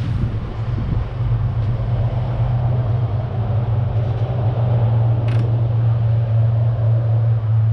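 Steady low drone of a pickup truck driving at speed, engine and road noise together.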